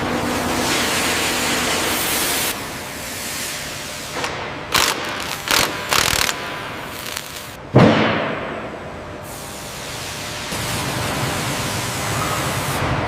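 Factory working noise: a steady hiss, broken in the middle by a run of sharp knocks and bangs, the loudest about eight seconds in, ringing off briefly.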